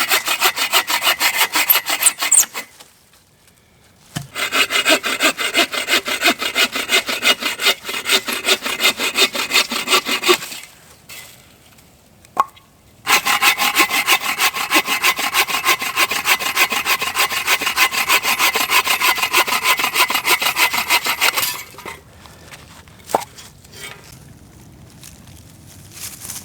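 Agawa Canyon Boreal 21 bow saw cutting firewood in rapid back-and-forth strokes. The sawing comes in three long runs with short pauses between them, then stops about three-quarters of the way through, leaving a single knock.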